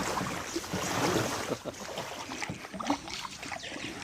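Kayak paddles splashing and dripping in the water: a run of small, irregular splashes and trickling.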